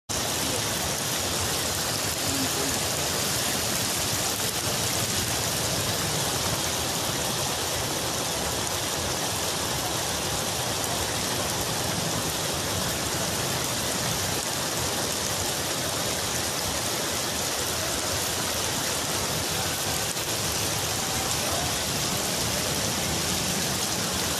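Heavy rain pouring down steadily: a dense, even hiss of falling water.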